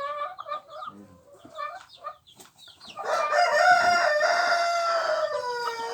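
Chickens clucking, then a rooster crows once, about three seconds in: a loud, long crow that drops in pitch as it ends.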